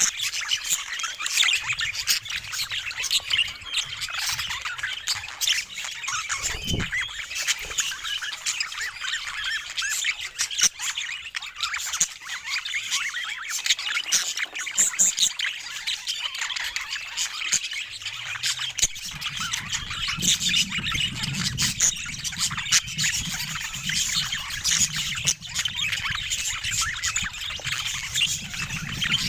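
Budgerigars chattering continuously: a dense run of quick chirps, warbles and squawks.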